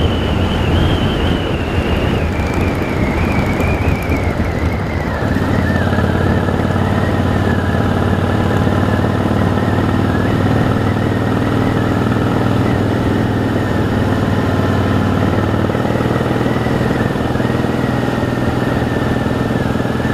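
Harley-Davidson V-twin motorcycle engine running steadily. A whining tone drops in pitch over the first five seconds, then holds level as the engine settles into an even note.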